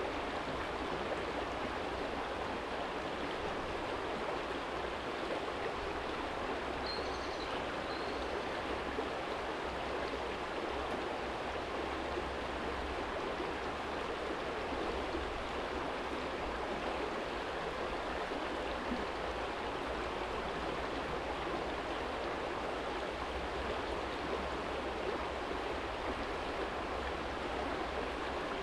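Small shallow stream flowing over a stony bed: a steady, even rush of water, with a low rumble underneath. A brief high chirp sounds about seven seconds in.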